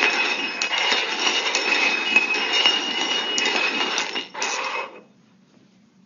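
Hard cups sliding and clattering on a hard surface as they are shuffled to hide a treat, with continuous scraping and clinking that stops about five seconds in.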